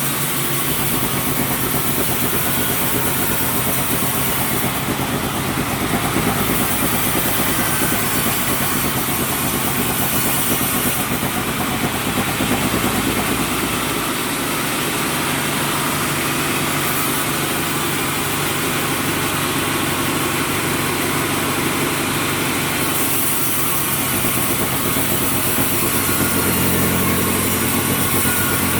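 Sawmill running, its engine and saw going steadily, with a couple of shifts in tone partway through.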